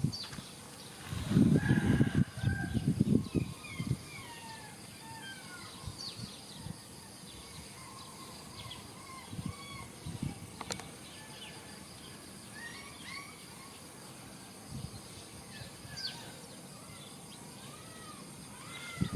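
Birds chirping, with many short, rising and falling chirps scattered throughout. Near the start there are a couple of seconds of low bumping and rustling, the loudest part.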